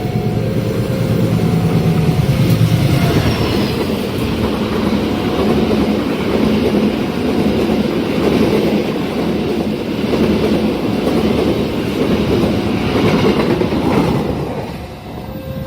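Train passing at speed through a level crossing, wheels clattering over the rail joints, with the crossing's electronic warning chime repeating behind it. The train noise falls away near the end.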